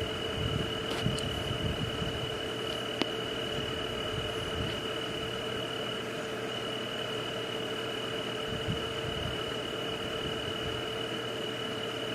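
Night ambience: a steady insect chorus holding one constant high tone over an even hiss, with a few faint clicks.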